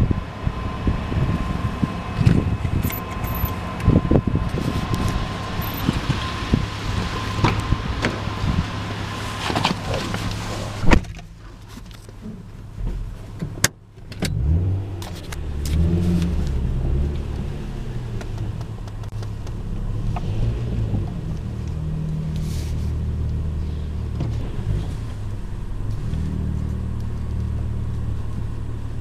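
Car engine idling and creeping forward, heard from inside the cabin as a low, steady hum. Before that, about the first eleven seconds hold an outdoor mix with a steady tone and a few clicks, ending in a sharp knock as the car door shuts.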